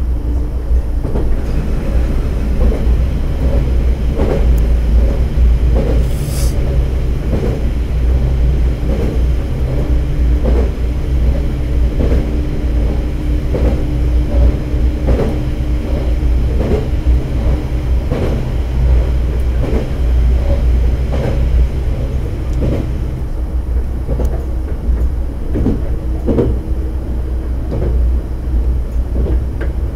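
Diesel railcar under way, heard from inside the cab: a steady low engine and running drone with a regular clickety-clack of the wheels over rail joints. A short high hiss comes about six seconds in. Most of it is inside a tunnel.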